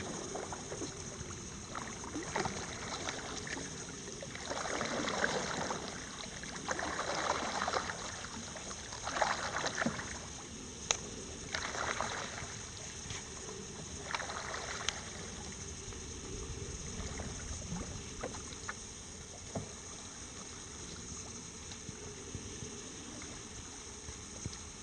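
Water swishing against a canoe in short surges every second or two, with a few light knocks on the hull, then settling to a quiet steady wash.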